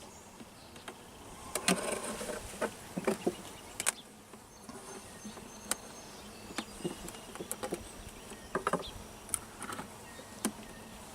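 Honey bees buzzing around an open hive, with scattered sharp clicks and knocks through it.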